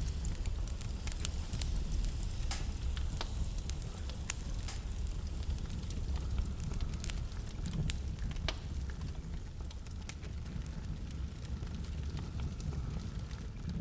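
Wood fire burning in a fireplace: a steady low rumble of flames with irregular sharp crackles and pops from the burning logs, the pops more frequent in the first half.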